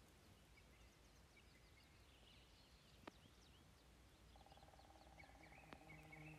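Very faint birdsong, short high chirps, in near silence. About two-thirds of the way through, soft sustained tones of background music come in, and there are a couple of faint single clicks.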